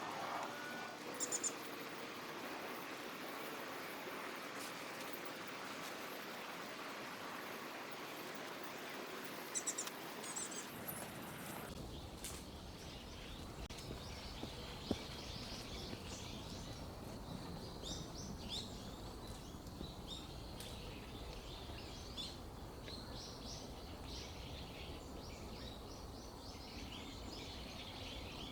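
Outdoor ambience of small birds chirping over a steady hiss, with only a couple of short high chirps at first. About twelve seconds in, the background changes abruptly to a low rumble, and the short chirps come much more often.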